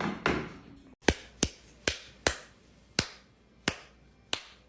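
A brief noisy sound that cuts off abruptly about a second in, then seven sharp clicks or snaps at uneven intervals, half a second to a second apart, each dying away quickly.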